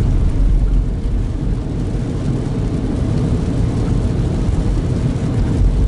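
Steady low rumble of a car driving on a wet road, heard from inside the cabin: engine and tyre noise with a faint hiss from the wet pavement.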